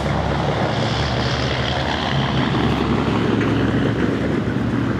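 Lifted Chevrolet ZR2 pickup's engine running with a loud, steady low drone from its exhaust. The drone turns a little rougher in the middle.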